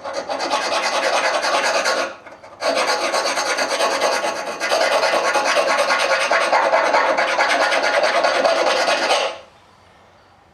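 A file rasping out the pin hole of a truck door hinge to enlarge it so the new hinge bushings fit. It rasps steadily, breaks off briefly about two seconds in, resumes, and stops near the end.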